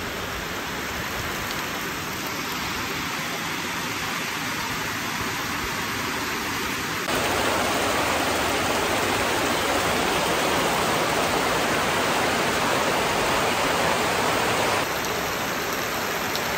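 Heavy rain falling steadily, a dense hiss with no single drops standing out; it gets louder abruptly about halfway through and drops back near the end.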